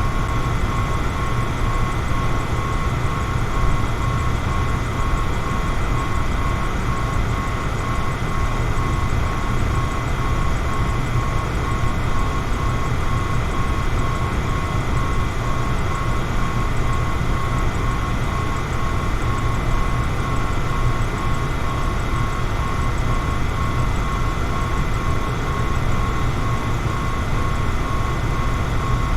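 Electric fan running steadily: an even rush of air, heaviest in the low range, with a faint, constant motor whine.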